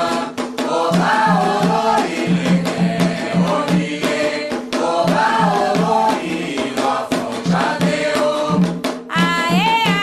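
Candomblé chant for Xangô: a group of voices singing in Yoruba over a steady beat of atabaque hand drums and sharp percussion strikes. A single high solo voice comes in near the end.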